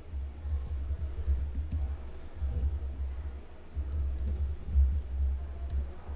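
Typing on a computer keyboard: irregular key clicks over a low, uneven thudding carried to the microphone.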